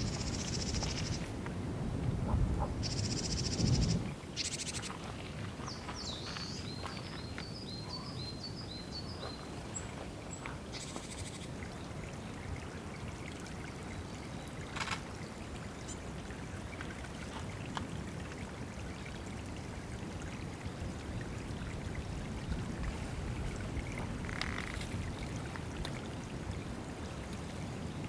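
Water running and trickling at a woodland bathing pool, with louder splashing in the first four seconds. A small bird gives a quick run of about eight high notes around six seconds in.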